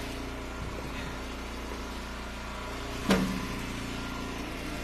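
Engine of an Eastonmade Ultra wood splitter running steadily, with one sharp knock about three seconds in.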